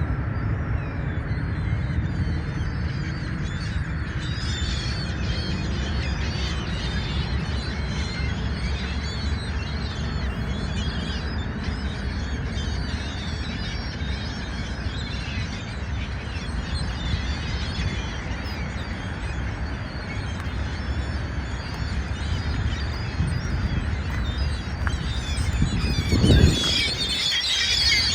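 A flock of gulls calling, many short cries overlapping one another, over a steady low rumble. A louder call stands out near the end.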